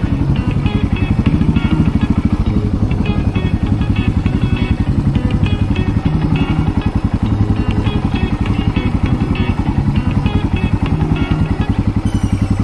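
A motorcycle engine running steadily while being ridden, with music that has a steady beat playing over it. The sound changes just before the end.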